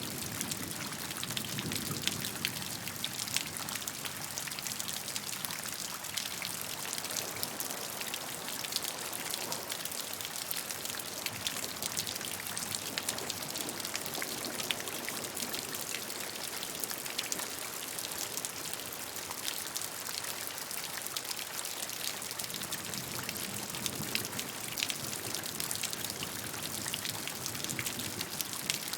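Steady rain falling, a continuous hiss dotted with many small, sharp drop impacts.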